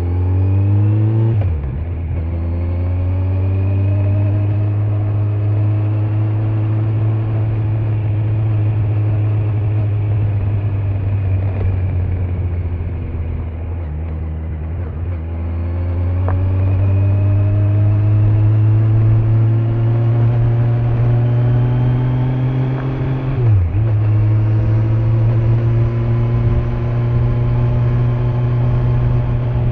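Kawasaki Z900's stock inline-four engine under way. The revs climb and drop sharply at an upshift about a second and a half in, ease off and sag a few seconds past the middle, then pull up again. There is a brief dip in revs near the end before it holds a steady cruise, with tyre and wind noise underneath.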